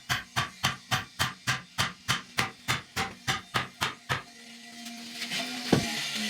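Rapid, evenly spaced hammer blows on wood, about four a second, stopping about four seconds in; then faint music and a single sharp knock near the end.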